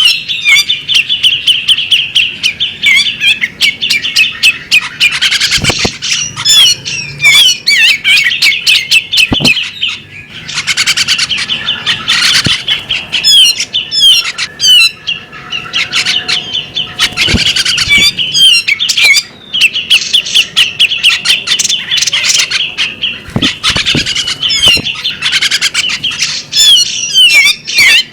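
Female bearded magpie-robin calling: a loud, nearly unbroken run of fast chattering notes and sharp clicks, with brief pauses about ten and nineteen seconds in.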